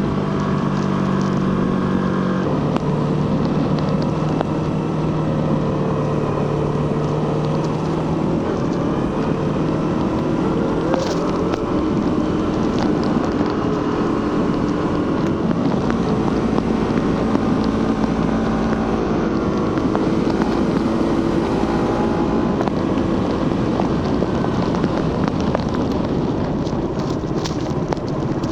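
Suzuki GSX-R150's single-cylinder engine and stock exhaust running under way, its pitch stepping and shifting several times with throttle and gear changes, over steady wind and road noise.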